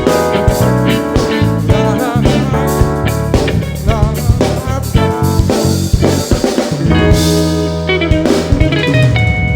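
A live band playing an instrumental soul groove: guitar lines with bent, wavering notes over bass and drum kit.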